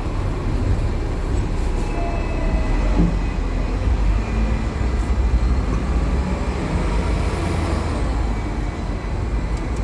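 Hong Kong double-decker tram running along its street track, heard from on board: a steady low rumble of motor and wheels on the rails.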